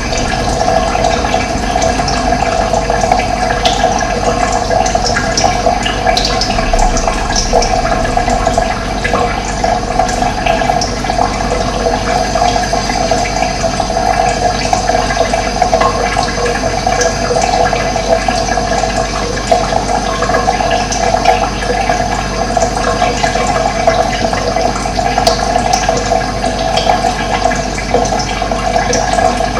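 Steady, loud rush of running water, with occasional faint high bird chirps over it.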